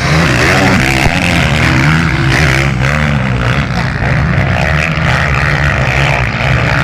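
Motocross motorcycle engines running hard, revving up and down as the bikes race.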